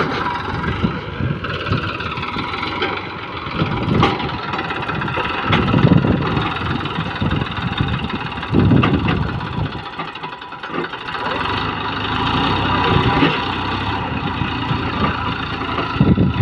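Tractor engine running, with several louder swells as it is revved.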